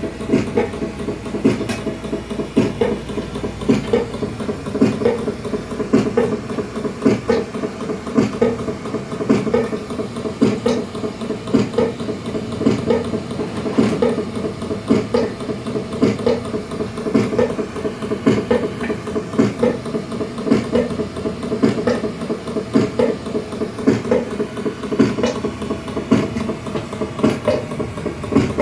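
Mechanical noise picked up 18 m underground: a steady machine hum with rapid, irregular knocking and clattering, several knocks a second, that does not let up. The uploader takes it for tunnel-excavation machinery working below ground.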